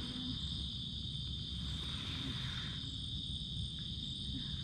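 Night insects chirring steadily in a high, unbroken drone, over a continuous low rumbling background noise.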